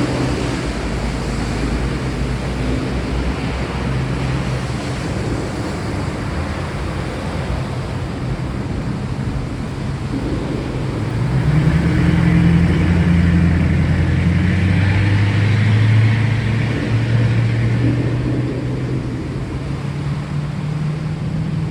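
Steady rain with a low rumble of thunder that swells about halfway through, rolls on for several seconds and fades away.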